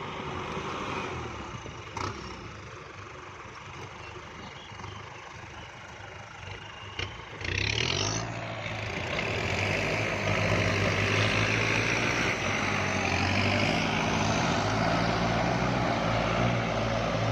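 Kubota tractor diesel engine running at moderate revs. About seven and a half seconds in it revs up louder and holds at high revs.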